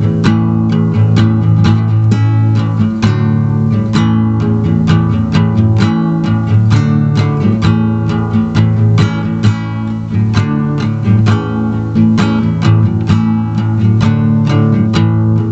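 Instrumental song break: guitar strummed in a steady, even rhythm over sustained low notes, with no singing.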